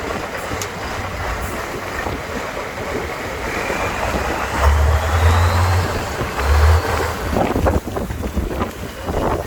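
Trial truck's engine running hard with a rising whine about halfway through, as it is driven on an off-road course, with wind buffeting the microphone.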